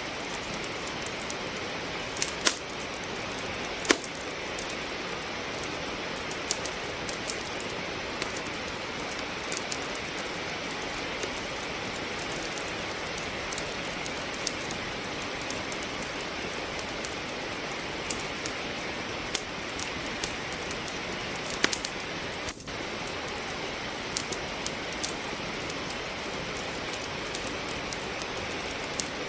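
Steady rain hiss with a wood fire crackling over it: sharp, irregular pops and snaps from burning logs, a few of them louder.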